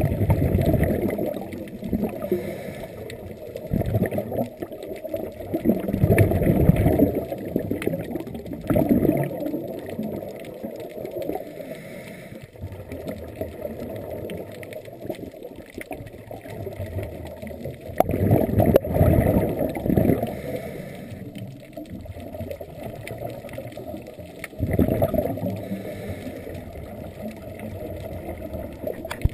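Scuba diver's exhaled breath bubbling out of the regulator in irregular bursts every few seconds, muffled as heard underwater.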